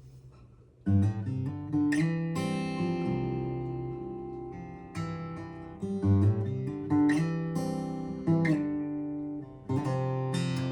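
Acoustic guitar playing a slow intro: after a quiet first second, chords are struck every second or so, each left to ring out and fade.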